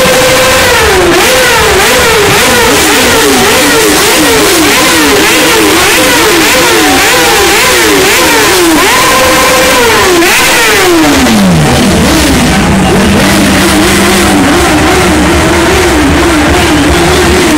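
Motorcycle engine revved hard while standing: held at high revs, then blipped up and down quickly over and over. It is held high again about nine seconds in, drops to idle a little after eleven seconds, and then revs lightly and unevenly. Very loud.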